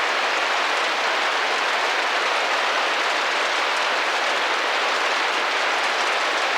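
Steady rain drumming gently against a window pane, an even hiss of many small drops with no pauses or heavier strikes.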